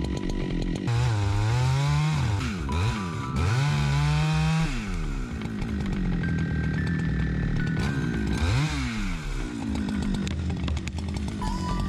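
Chainsaw engine revving up and down as it cuts, its pitch rising and falling several times, over background music.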